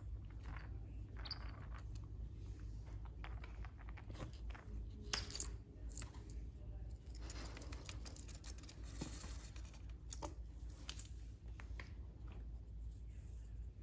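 Faint crinkling, rustling and small knocks of a cat toy being handled and put together, with a longer rustle a little past the middle.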